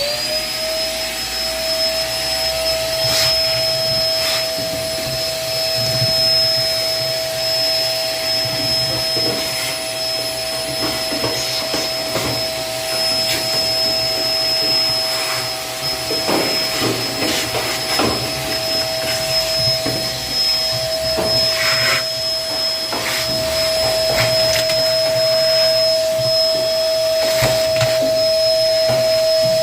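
Vacuum cleaner running with a steady whine. Scattered sharp clicks and rattles come through as coins are sucked up.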